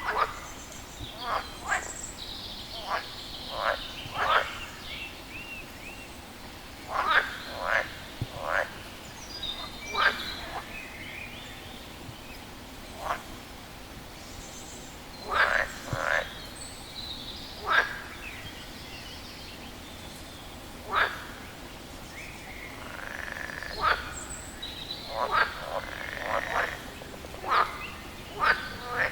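A frog calling: short, sharp croaks repeated every second or two, often in quick pairs or threes, with longer gaps between the bouts.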